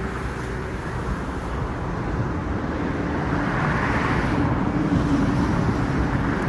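Steady motor vehicle noise: a low engine hum with road-like rushing, slowly growing louder.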